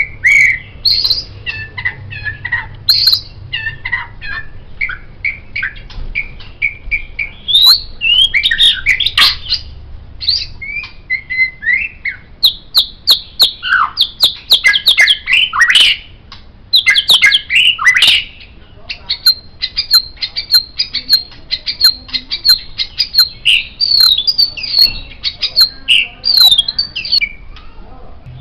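White-rumped shama (murai batu) singing a long, varied song of whistled phrases, sharp clicking notes and rapid runs, with a fast series of repeated high notes in the second half.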